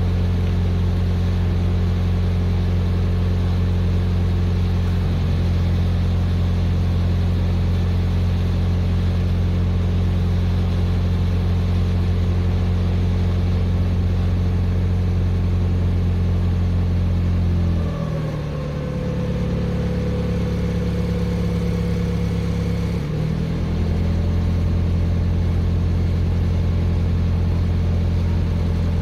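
2022 Ford Bronco Wildtrak's turbocharged V6 idling steadily. About two thirds of the way through the note drops and a faint higher whine comes in for about five seconds, then the idle returns to its earlier note.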